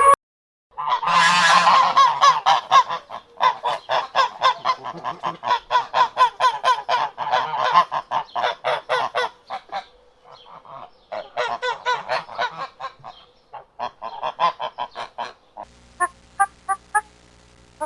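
A flock of geese honking, many calls overlapping in a rapid, continuous chatter with a brief lull about ten seconds in.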